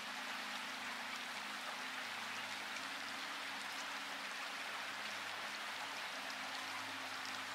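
Steady rain falling, an even hiss with scattered faint drop ticks, over a faint low steady hum.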